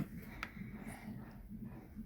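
A single short click a little under half a second in as the new diesel heater is switched on, then only faint background noise: no fuel pump ticking and no fan running, because the heater is failing to start.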